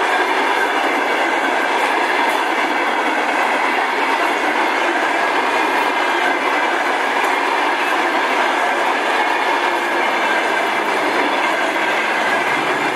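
Passenger coaches of an express train passing close by at speed: steady loud rolling noise of steel wheels on the rails.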